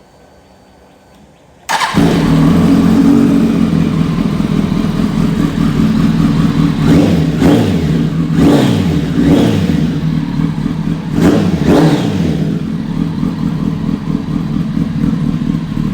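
2006 Kawasaki ZX-10R inline-four engine firing up about two seconds in through a single-exit Dominator aftermarket exhaust, then idling. Around the middle it is revved in about six short throttle blips that rise and fall quickly, before settling back to idle.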